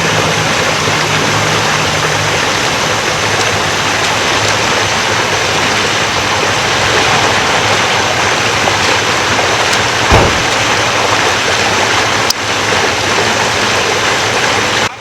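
Water gushing steadily from a burst underground water main, up through the street surface. For the first two seconds a low engine hum runs beneath it, and there is a single thump about ten seconds in.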